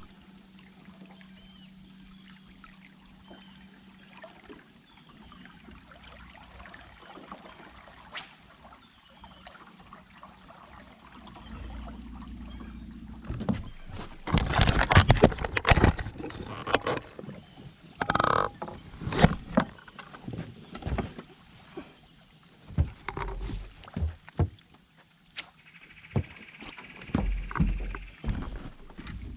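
Sounds of handling gear aboard a small fishing boat: a faint steady hum for the first dozen seconds, then about halfway through a burst of loud knocks, clatter and water noise, with scattered knocks after it.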